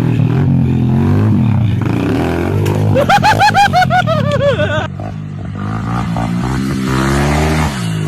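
Dirt bike engine running and revving, its pitch rising and falling. For about two seconds in the middle, a higher-pitched sound rapidly wavers up and down over it.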